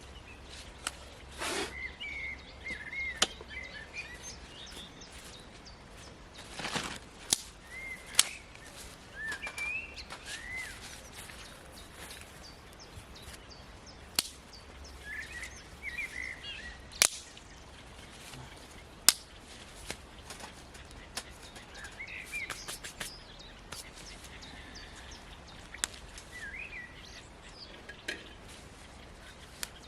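Birds chirping on and off in short warbled phrases, with scattered sharp clicks and taps from something being handled. The clicks are the loudest sounds.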